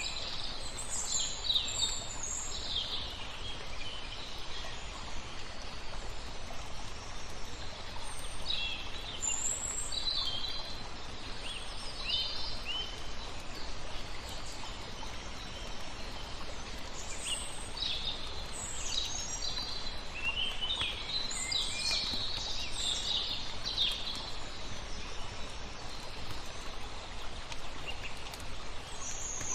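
Small birds chirping and twittering in several bouts, with quieter gaps between, over a steady wash of flowing water.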